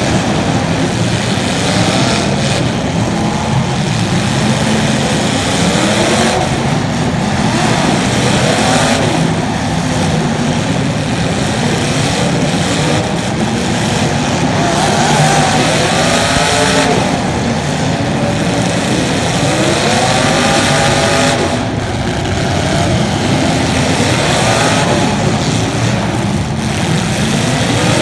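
Racing engines revving up and down as they lap, several overlapping at once, each pitch rising and falling again and again.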